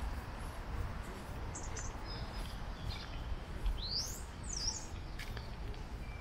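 Small birds chirping: scattered short high calls with a couple of quick rising and falling whistles, over a steady low background rumble.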